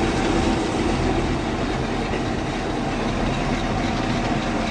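Mercruiser 7.4L 454 big-block V8 marine engine idling steadily, shortly after being started.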